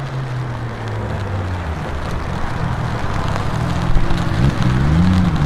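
Sports car engine running steadily at low revs, then blipped about four seconds in, the pitch sweeping up and back before holding a higher, louder note.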